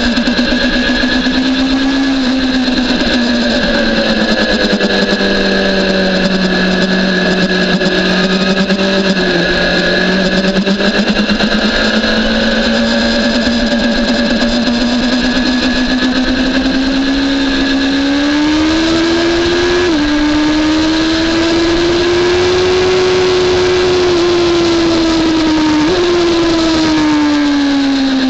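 BMW S1000RR inline-four engine heard on board at speed, its revs sinking and climbing smoothly as the bike is ridden through corners. About two-thirds through, the pitch drops abruptly at a gear change. Near the end it jumps up sharply, then falls away as the bike slows.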